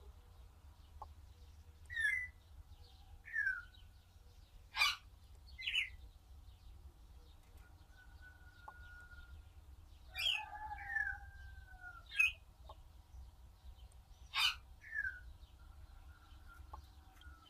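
Birds calling: a series of short calls, several sliding down in pitch, in two clusters with a lull in the middle. A low steady hum lies underneath.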